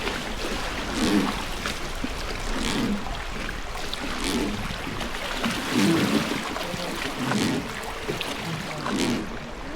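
Oars of a traditional wooden Hozugawa river boat being pulled in a steady rhythm, about one stroke every second and a half, each stroke with a splash, over the steady rush of the river.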